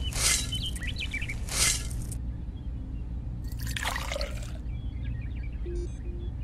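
Dry cement powder sliding off a tiny shovel into a can, two short hisses in the first two seconds. About three and a half seconds in comes a second-long trickle of water poured from a small metal bucket onto the powder.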